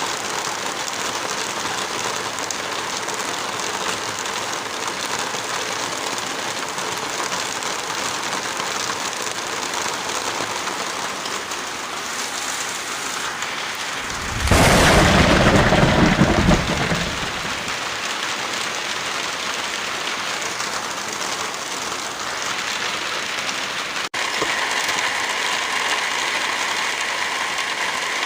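Steady rainfall with a single loud clap of thunder about halfway through, lasting a couple of seconds. Near the end a brief dropout is followed by a slightly changed rain sound.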